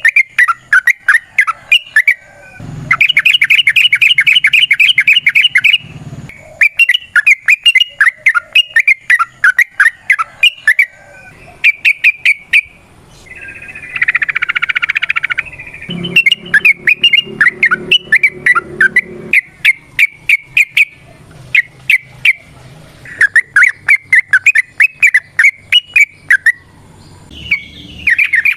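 Yellow-vented bulbul (trucukan) singing loudly: quick bubbling, chattering phrases of short notes, broken by a few very fast continuous trills.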